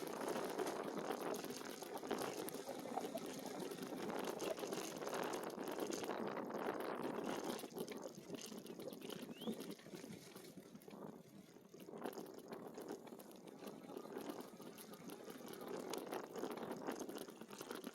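E-bike tyres rolling over a rough trail surface: a steady crackling rustle that eases off about eight seconds in and builds again near the end.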